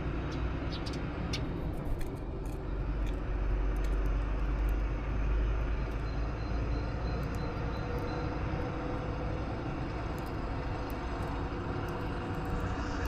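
Steady low rumble that swells a few seconds in and then eases, with faint brief high chirps scattered over it.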